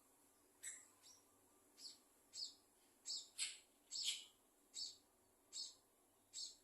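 Scaly-breasted munias calling: a series of about eleven short, high chirps, one or two a second.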